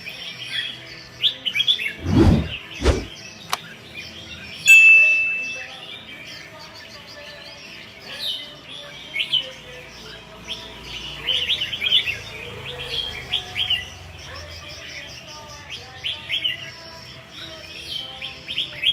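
Red-whiskered bulbuls chirping and singing in quick, short phrases throughout. Two dull thumps come about two seconds in, and a steady high tone about five seconds in lasts around a second and is the loudest sound.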